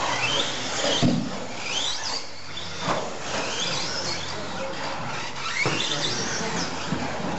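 Several RC stadium trucks racing on dirt: their motors whine, rising and falling in pitch as they speed up and slow down, over a steady hiss of tyres on the track, with a few sharp knocks about a second, three seconds and nearly six seconds in.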